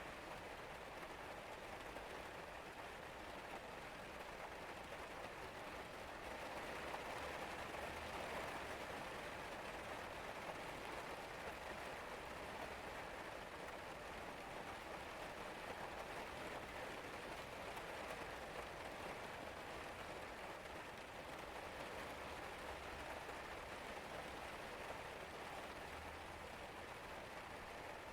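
Steady rain falling, an even hiss of many drops pattering on surfaces, a little heavier about seven seconds in.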